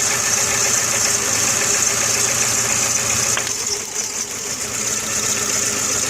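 Volkswagen Jetta 2.0-litre four-cylinder engine idling unevenly with a misfire, which the owner traces to the coil pack not firing the number 4 cylinder. A little over halfway through, the sound changes and its higher part thins out.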